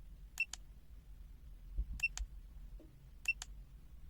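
Function-select key of a FUYI FY123 digital multimeter pressed three times, each press a sharp click-click with a short high beep from the meter as it steps to the next function.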